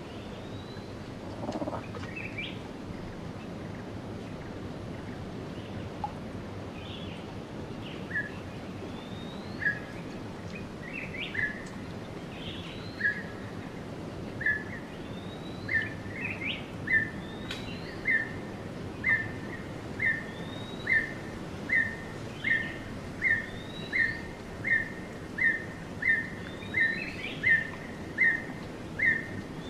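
Birds calling over a steady background hiss. A short mid-pitched note starts about eight seconds in, sparse at first, then repeats steadily at about three every two seconds and grows louder. A higher rising chirp comes every few seconds.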